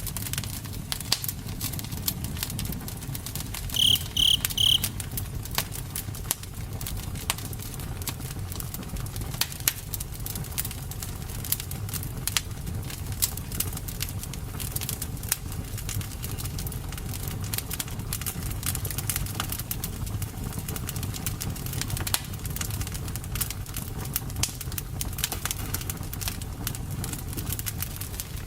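Campfire burning: wood crackling with frequent sharp pops over a low steady rumble of flames. About four seconds in come three short high chirps.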